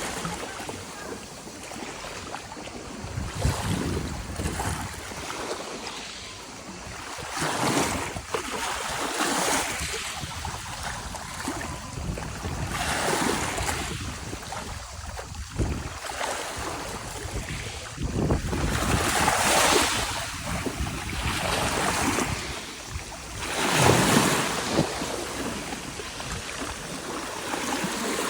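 Sea waves breaking and washing in, surging every few seconds, with wind buffeting the microphone.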